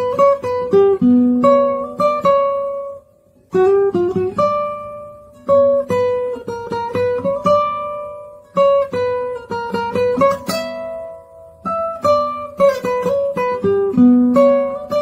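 Background music of a plucked acoustic guitar playing a melody in short phrases, with brief pauses between them.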